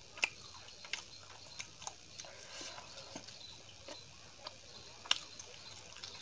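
Close-miked mouth sounds of chewing: scattered wet clicks and lip smacks at an uneven pace, the sharpest about a quarter second in and about five seconds in.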